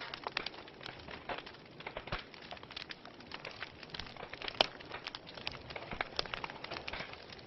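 Fire burning in a fireplace, crackling with a steady run of irregular small pops over a soft hiss, and one sharper, louder pop a little past halfway.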